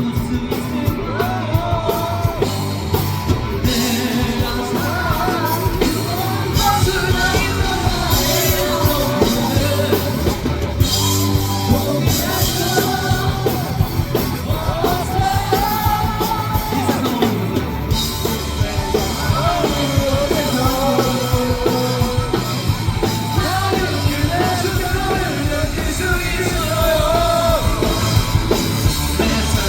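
Rock band playing live on the street, with a loud sung and shouted lead vocal over distorted electric guitars, bass and a drum kit.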